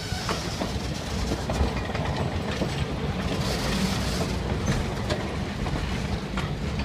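Steam train of the Great Smoky Mountains Railroad, hauled by 2-8-0 No. 1702, rolling past with a steady rumble, its wheels clicking over the rail joints.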